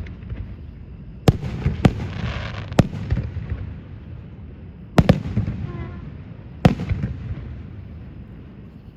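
Fireworks display: aerial shells bursting with five or six sharp bangs that echo away, and a spell of crackling about two seconds in.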